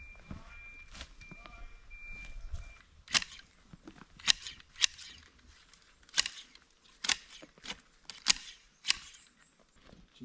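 A series of sharp cracks or knocks, about eight of them, starting about three seconds in, roughly one a second at an uneven pace.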